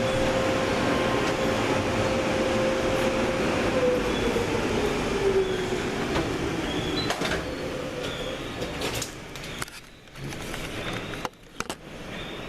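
Steady machinery noise with a whine that slides down in pitch around the middle, then a few sharp clicks and brief drops in level near the end.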